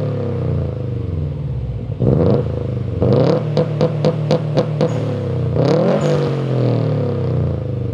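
Car engine revved through an Invidia N1 exhaust fitted with its baffle inserts. About two seconds in the note rises and is held up with a rapid crackle for a couple of seconds, then falls back to idle around six seconds in.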